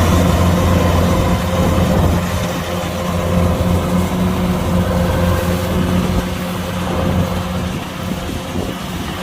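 Kubota DC-105X combine harvester's diesel engine running steadily, a low hum with a constant higher tone above it, easing slightly near the end.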